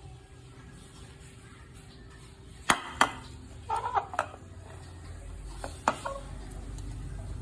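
Sharp metallic clicks and clinks, as of hard objects knocking together: two clicks close together about two and a half seconds in, a short clinking clatter a second later, and another click near the end. A low rumble builds underneath in the last couple of seconds.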